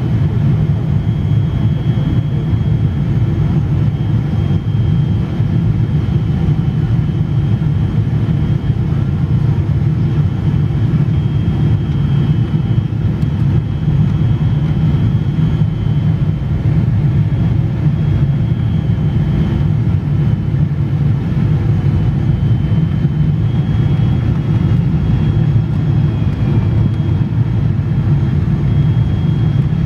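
Boeing 777 jet noise during landing: a loud, steady low rumble with a faint high whine that holds even throughout.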